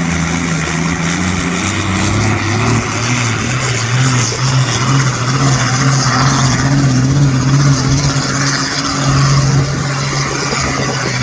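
Competition pulling tractor's engine running loud and steady at high revs under heavy load as it drags the weight-transfer sledge down the track.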